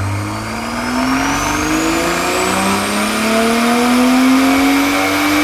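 Toyota Supra's 3.0-litre B58 turbocharged straight-six at full throttle on a dyno, its revs climbing slowly and steadily through one long pull, exhaust note through a catted downpipe and titanium cat-back exhaust. A faint high whine rises with it.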